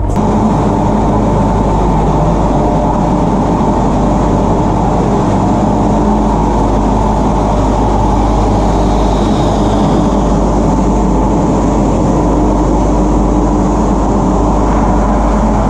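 Locomotive of the Mettupalayam–Ooty mountain train standing and running steadily, a loud, even mechanical hum with steady tones.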